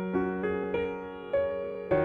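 Background piano music: a soft melody of single struck notes over a held bass note.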